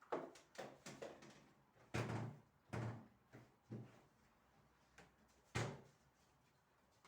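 A string of knocks and clunks from household things being handled and set down, about ten in all and unevenly spaced. The heaviest come about two seconds in and near five and a half seconds.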